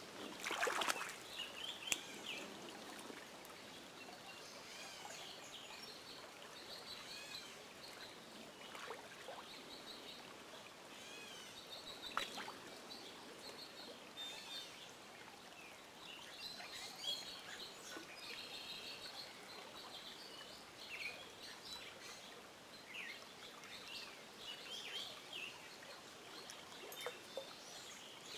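Several songbirds singing and chirping over the steady rush of stream water, with a few brief clicks near the start and about twelve seconds in.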